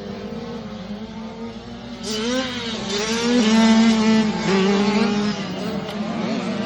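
Kawasaki KX85 two-stroke single-cylinder motocross engine under way, its revs rising and falling as the throttle is worked. It is quieter for the first two seconds, then louder from about two seconds in.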